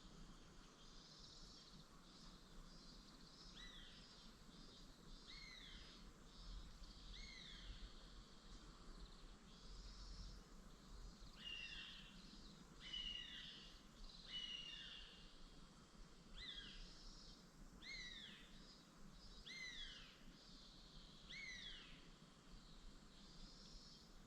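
A bird calling over and over, a short falling note repeated about every one and a half to two seconds, with fainter chirping of other birds behind it and a low steady background hum.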